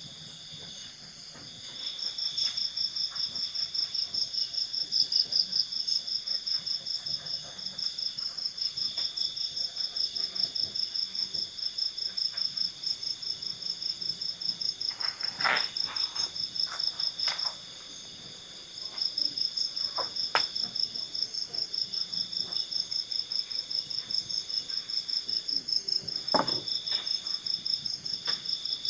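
Crickets chirping in a fast, even pulse, two callers at different pitches; the higher one stops briefly near the start and again just past the middle. A few short knocks sound around the middle and once more near the end.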